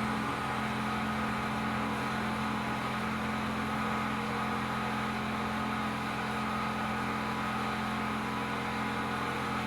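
Steady machine hum: several low, unchanging tones over a constant hiss.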